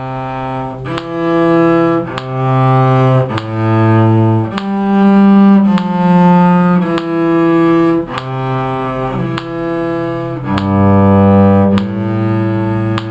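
Cello bowing a slow line of sustained low notes, one after another, changing about once a second, with a short tick at each note change.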